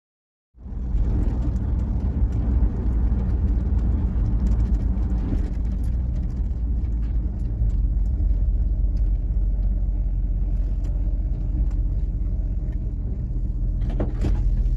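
Motor vehicle running, heard from inside the cabin: a steady low rumble of engine and road noise that starts abruptly about half a second in, with a few light clicks and rattles.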